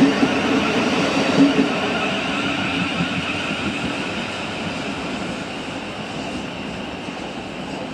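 South Western Railway Class 455 electric multiple unit running away along the track, with a few wheel clacks in the first couple of seconds, then a steady rumble that slowly fades.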